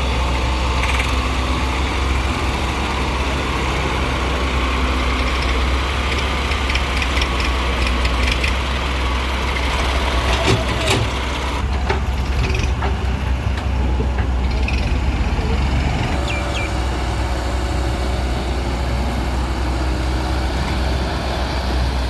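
Heavy diesel machinery runs steadily, with a deep low hum throughout. A cluster of short knocks and clatter comes near the middle.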